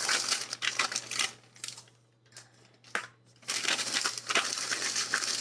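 Plastic packaging crinkling and crackling as it is handled, in two spells with a short pause in between.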